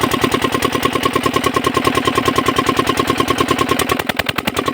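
Diesel engine pump set running steadily just after starting, with an even, rapid thudding beat of about nine a second; near the end the beat gets a little quieter and less even.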